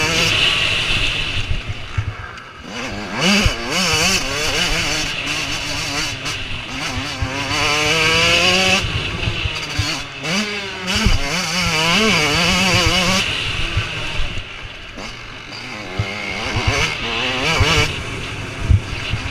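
Motocross motorcycles racing, their engines revving up and falling back again and again, with more than one bike heard at times.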